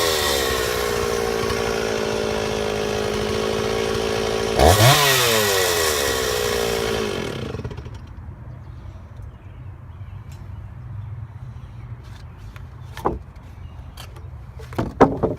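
Chainsaw on an Alaskan chainsaw mill running at full throttle as it rips lengthwise through a log. About four and a half seconds in, the engine pitch jumps up and falls away as the cut finishes, then the saw drops to a low idle. A few sharp clacks come near the end.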